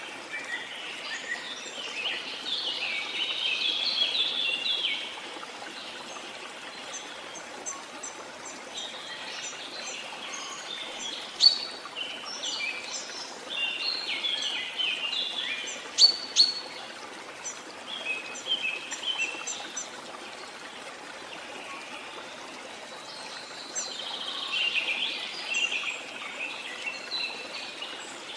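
Rainforest birds calling in bursts of fast, chattering song, with a few sharp loud chirps in the middle, over a steady rush of running water.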